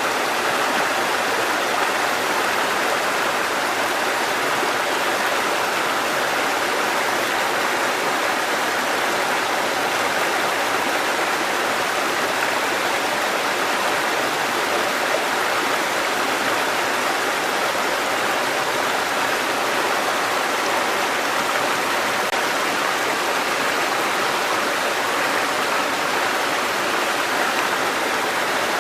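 Water cascading over rocks in a mountain stream, a steady even rush with no breaks.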